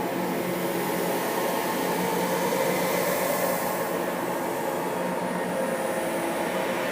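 Steady dark drone of dense noise with faint held low tones, unchanging in loudness: an eerie horror ambience sound effect.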